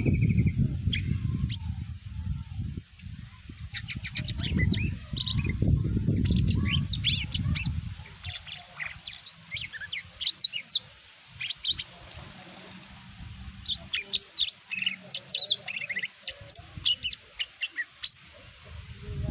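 Cucak ijo (green leafbird) singing a fast, varied run of sharp chirps, trills and whistled notes. For the first eight seconds or so a loud low rumbling noise runs underneath, then fades, leaving the song alone.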